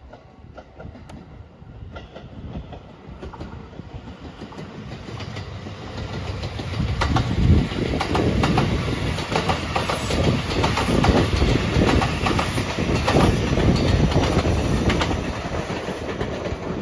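JR Shikoku 5000 series Marine Liner electric train approaching and passing close by, its wheels clicking sharply over the rail joints. The noise builds over the first few seconds, is loudest while the cars go past, and eases off a little near the end.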